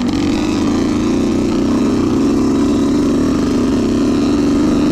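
Youth dirt bike engine running close by at fairly steady revs, its pitch wavering only slightly as the rider works through the trail.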